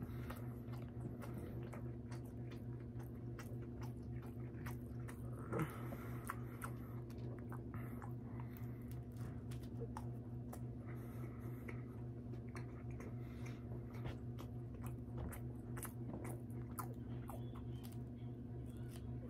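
A person biting and chewing food close to the microphone, with many small mouth clicks and smacks, over a steady low hum.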